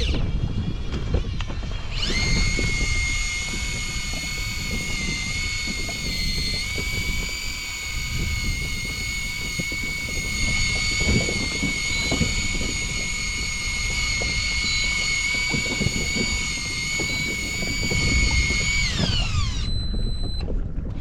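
Electric fishing reel motor whining as it winds in: a high whine rises in pitch about two seconds in, holds steady, then falls away and stops near the end. Wind buffeting and water noise run underneath.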